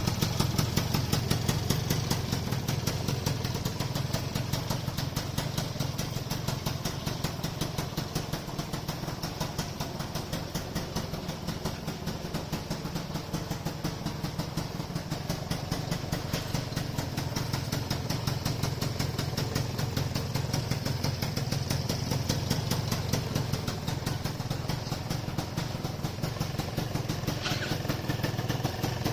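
Customized Gilera Runner FXR180SP scooter's two-stroke single-cylinder engine idling steadily, heard at its exhaust.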